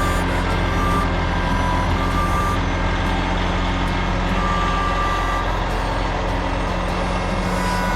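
A heavy vehicle's engine running steadily while its backup alarm beeps in uneven pulses at two slightly different pitches, the sign of the vehicle reversing.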